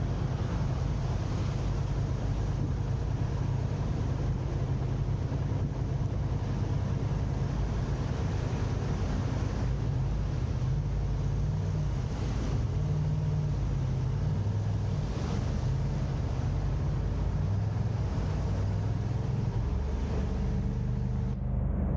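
Car driving with steady engine and road noise; the engine's low hum shifts up and down in pitch as the car changes speed.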